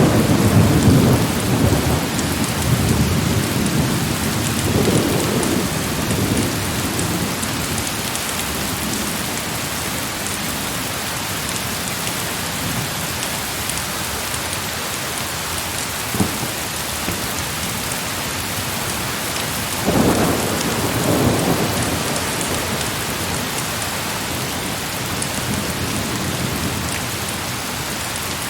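Heavy rain falling steadily, with thunder rumbling during the first several seconds and again about two-thirds of the way through, and one short sharp crack near the middle.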